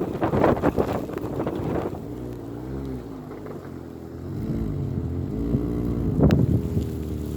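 Wind gusting hard against the microphone, then a car engine revving up and back down twice, with a sharp click near the end.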